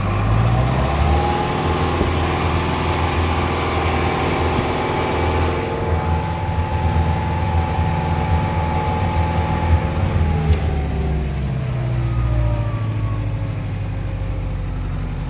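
International 885 XL tractor's diesel engine revving up as the tractor reverses, holding steady engine speed for about ten seconds, then dropping back toward idle.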